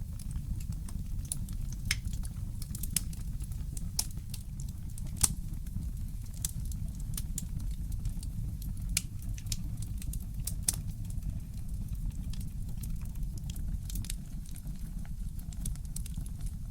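Wood fire crackling: irregular sharp pops and snaps, one louder pop about five seconds in, over a steady low rumble.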